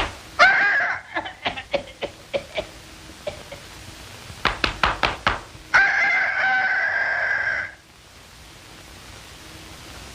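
Runs of sharp, rapid knocks, several a second, broken twice by a crowing, rooster-like bird call: a short call near the start and a longer one of about two seconds a little past halfway, which cuts off abruptly, leaving only steady hiss.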